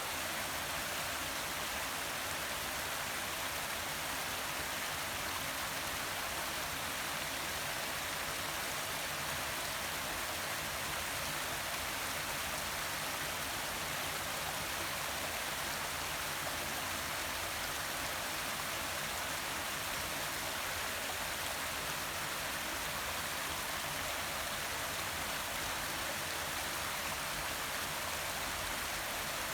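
Forest waterfall, a steady rush of falling and splashing water.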